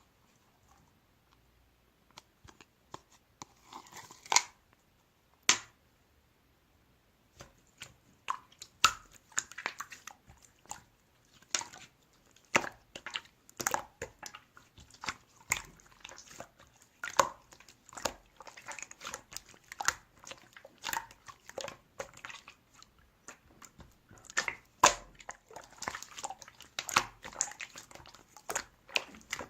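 Slime being squished and worked by hand, giving irregular wet clicks and pops: a few at first, then a dense, continuous run from about seven seconds in.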